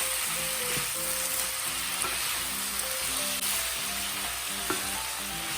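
Chicken, vegetables and bean vermicelli sizzling steadily in a stir-fry pan with a splash of water just added, under soft background music of short, stepping notes.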